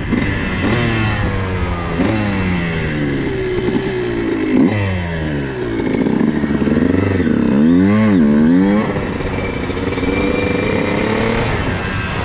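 Two-stroke dirt bike engine accelerating hard, its pitch climbing and dropping with each of several upshifts. It then revs up and down a few times and settles to a steady cruise near the end.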